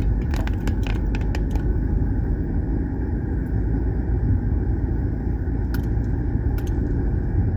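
Steady low road rumble of a car being driven, heard from inside the cabin, with a few light clicks or rattles.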